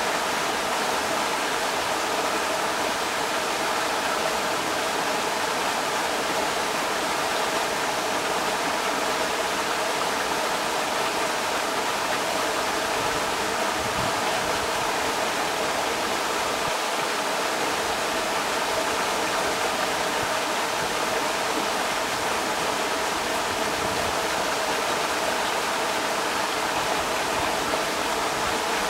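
Creek water rushing over rocks in a steady, unbroken wash.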